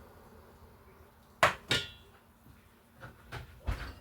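A serving utensil knocking and clinking against cookware while food is dished up: two sharp loud knocks about a second and a half in, the second ringing briefly, then a few lighter knocks near the end.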